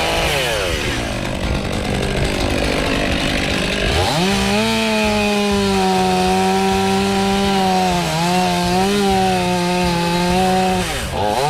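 Two-stroke chainsaw running hard: its revs sag and climb again in the first few seconds, then hold high and steady from about four seconds in, with a couple of brief dips.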